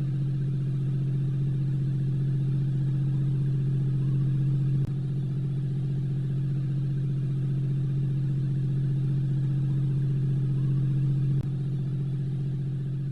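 Mercedes-AMG V8 engine running at a constant speed, a steady low drone with no change in pitch, broken by two brief dropouts about five and eleven seconds in.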